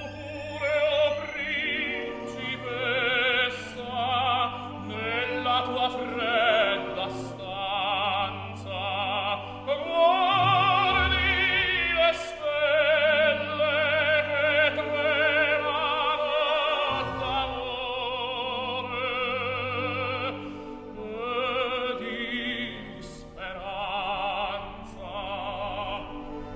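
Operatic aria: a classically trained singer sings with wide vibrato over orchestral accompaniment, holding long notes with short breaks between phrases.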